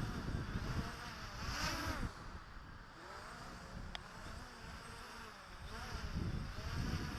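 JJRC X1 quadcopter's motors whining, their pitch swinging up and down as it is held against gale-force wind. Gusts of wind rumble on the microphone, loudest near the start and again towards the end.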